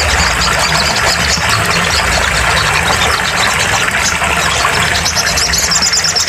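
Sogon songbird chirping rapidly at a high pitch, breaking into a fast trill near the end, over a steady low hum.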